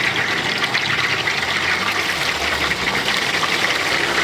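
Food deep-frying in hot oil: a steady, dense sizzle with fine crackling.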